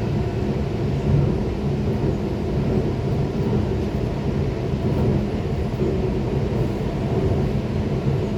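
Steady rumble of a moving train, with a low engine drone held under it.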